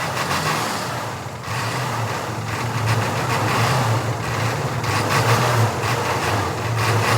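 A large truck engine running steadily with a low hum, picking up slightly in level after about a second and a half.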